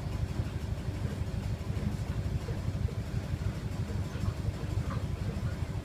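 Hairdryer running steadily, its airflow making a constant low rumble.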